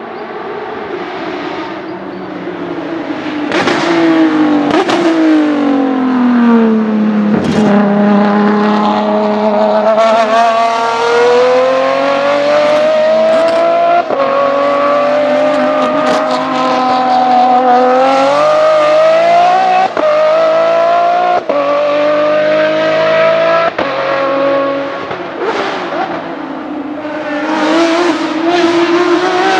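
Ferrari 599XX's V12 race engine: its pitch falls through downshifts under braking, then climbs through gear after gear at full throttle, each upshift a brief dip, before falling and rising again near the end.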